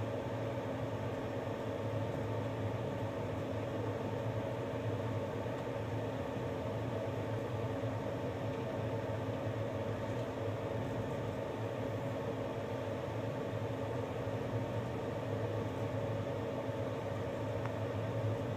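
A passenger train in motion, heard from inside the carriage: a steady running noise with a constant low hum.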